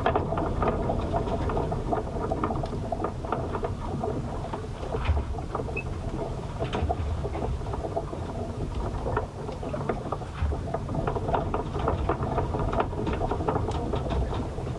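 Sounds aboard a ship in a storm: a steady low rumble overlaid with many small ticks and knocks throughout.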